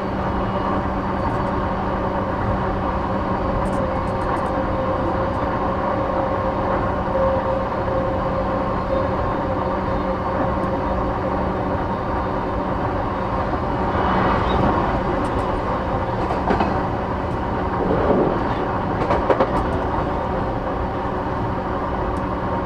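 E233 series 8000 electric commuter train running at speed, heard from inside the passenger car: a steady rumble of wheels on track with a constant hum of several steady tones. The noise swells louder briefly about two-thirds of the way through and again near the end.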